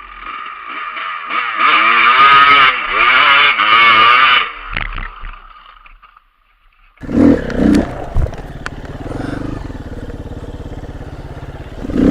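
Dirt bike engines revving high, the pitch wavering up and down for about four seconds, then fading out. After a short silence, a dirt bike engine runs steadily at lower revs.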